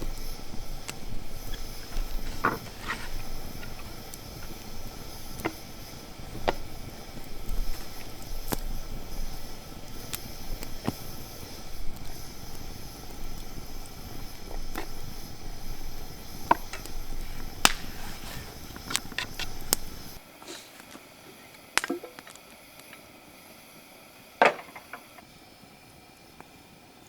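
Irregular sharp clicks and knocks over a steady outdoor background. About twenty seconds in, the background drops away abruptly and two more single knocks follow.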